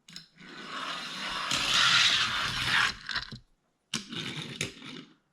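Die-cast toy cars rolling down a plastic race track with a rattling clatter that grows louder over about three seconds and then stops. A second, shorter run follows near the end.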